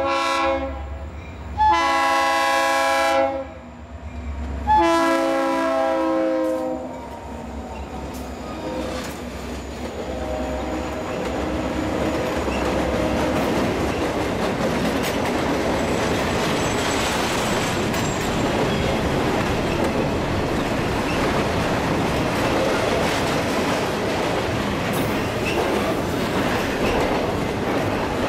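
Diesel locomotive horn on Florida East Coast Railway GP40-2 #429: the end of one blast, then two long blasts of about a second and a half each. Then a long intermodal freight train rolls past with a steady rumble and the clickety-clack of wheels on the rails.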